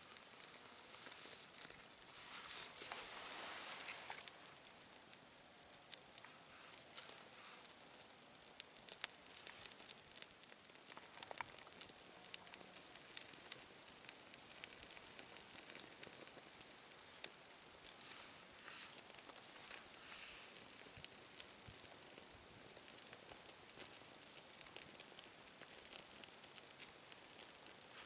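Small campfire crackling, with many small sharp pops over a soft hiss.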